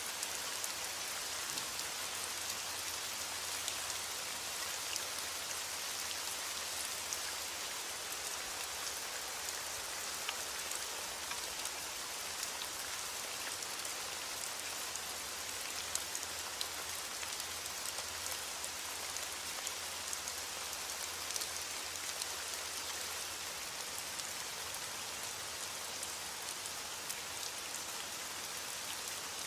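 Heavy rain falling on a window, a steady hiss with many small scattered ticks of drops throughout.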